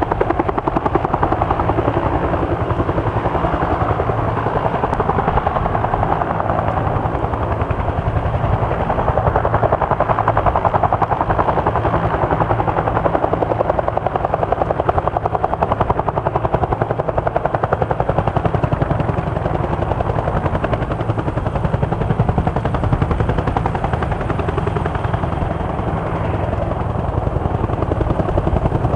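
Fuji-built UH-1J (Bell 205B-derived Huey) helicopter running close by, its two-bladed main rotor beating in a fast, steady rhythm that holds without a break.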